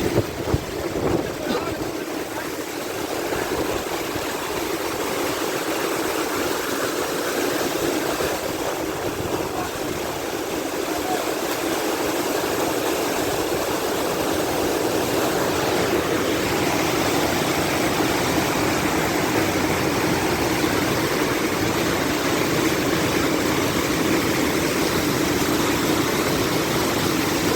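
Steady rush of a waterfall, an even noise that grows gradually a little louder.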